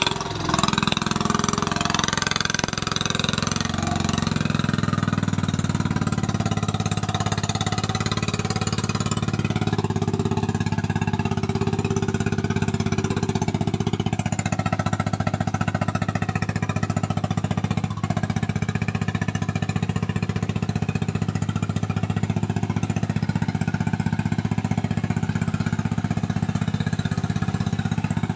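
Truck's diesel engine running steadily under load with a fast, even clatter, as a cassava-laden truck works its way out of a rain-soaked field.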